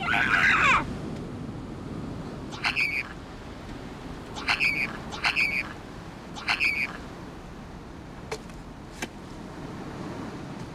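A series of short, bird-like crying wails, about five, each bending in pitch and spaced a second or two apart: crying that passes for singing. Two faint clicks come after them.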